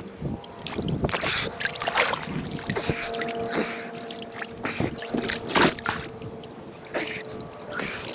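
Water splashing and sloshing in irregular bursts, with a faint steady hum underneath.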